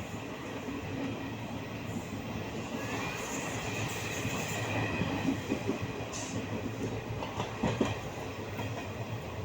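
Train running on rails, a steady rumble with faint high squealing tones in the middle.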